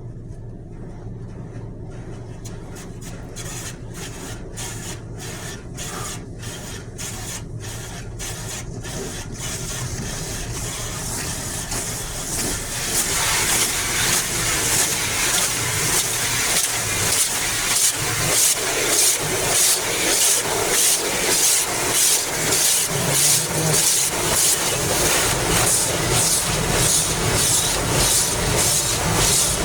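Automatic car wash heard from inside the car. Rhythmic swishing washes over the body about once or twice a second and grows steadily louder. About 13 seconds in it becomes a loud, steady hiss that keeps its pulse.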